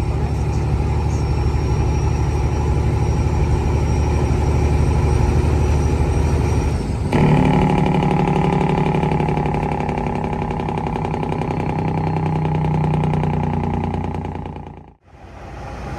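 A truck engine running steadily. About seven seconds in, the sound cuts abruptly to a different engine note with a higher, steadier hum. Near the end it dips away briefly.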